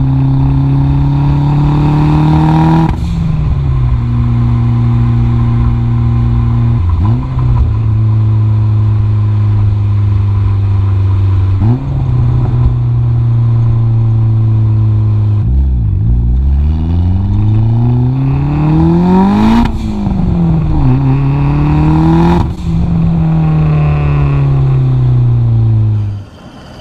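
Turbocharged DSM four-cylinder (4G63) under way, running steady between gear changes where the note drops. About two-thirds in it pulls hard through two gears in quick succession with a rising note, then eases off with a falling note, and the sound cuts off sharply near the end.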